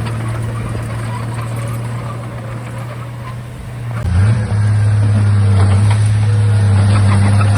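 Bulldozer diesel engine running steadily. About four seconds in, the sound changes abruptly and becomes louder.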